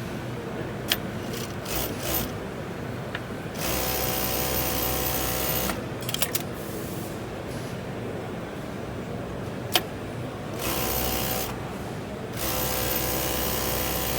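Broderi BD 2664 direct-drive coverstitch (reçme) sewing machine stitching in three short runs of one to two seconds each, starting and stopping, with a few sharp clicks in the pauses between runs.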